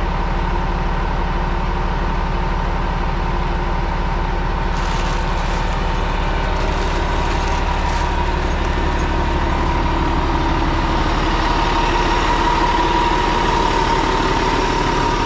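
Crane truck's diesel engine running steadily during a slow lift, with a steady high whine that grows a little louder near the end.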